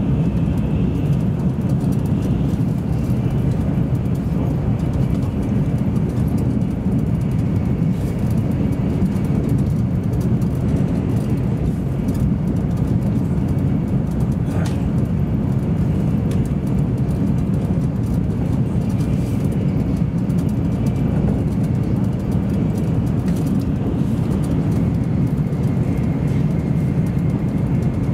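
Steady low rumble of an N700 series Shinkansen train running at speed, heard inside the passenger car, with a faint high whine over it and a single brief click about halfway through.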